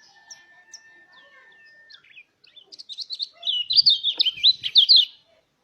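White-eye (pleci) singing: faint scattered twitters, then, about two and a half seconds in, a loud, fast run of high chirping notes that stops abruptly about five seconds in.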